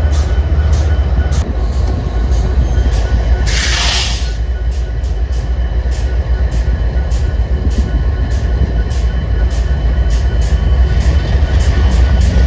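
A train running by with a steady low rumble and light, regular clicks at about two or three a second. A short burst of hiss comes about three and a half seconds in.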